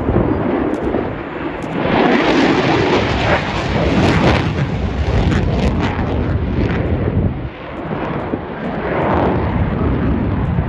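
Loud jet noise from a RAAF F-35A Lightning II's single Pratt & Whitney F135 engine during a display pass: a broad rumble that swells about two seconds in, dips sharply about seven seconds in, and builds again.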